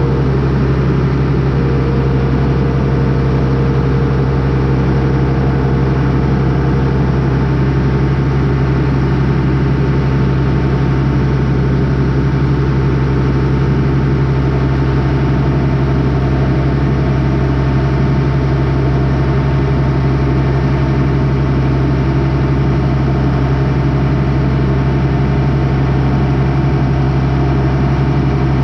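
Engine of a farm machine idling steadily, a loud low hum that does not change in pitch or level.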